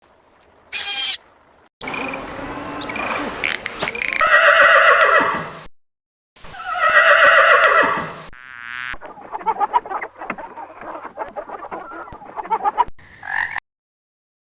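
A run of short, cut-together animal calls. The loudest are two long pitched calls a second or so apart, each falling in pitch, between patches of rustling, choppy noise.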